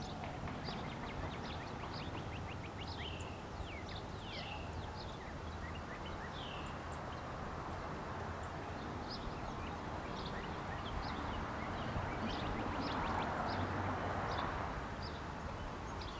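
Wild birds calling: many short high notes and a few downward-slurred calls, over a steady background hiss and rumble that swells for a few seconds near the end.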